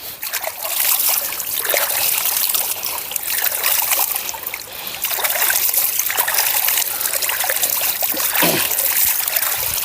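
Water splashing and running as hands are rinsed in a clear stream.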